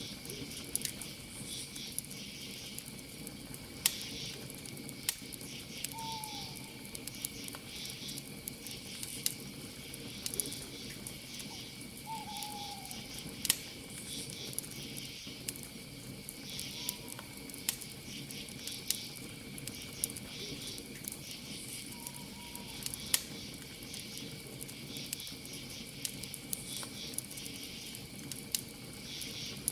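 Campfire crackling with sharp pops, over a steady chorus of crickets chirping in pulses. A short falling call sounds about six seconds in and again about twelve seconds in.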